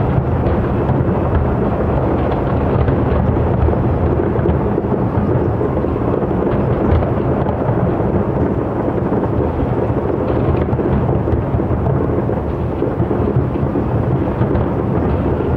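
Aerial fireworks shells bursting in quick succession far off, their reports blending into one continuous low rumble without separate cracks.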